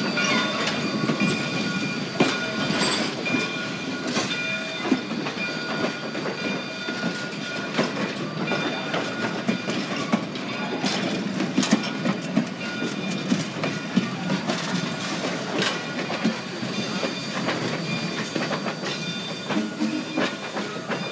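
Railroad cars rolling over jointed track. A steady rumble runs throughout, with wheels clicking at scattered rail joints and a few faint steady high tones.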